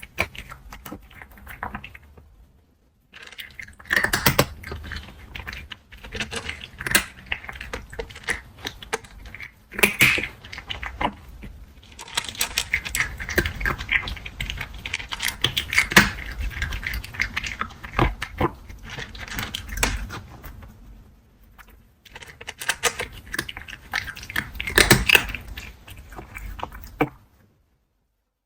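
A cat crunching dry kibble close to the microphone: irregular crackling bites and chewing, with two short pauses, stopping shortly before the end.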